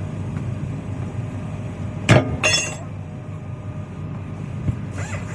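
Steady low mechanical hum, with a sharp knock about two seconds in and a ringing metal clink half a second after it.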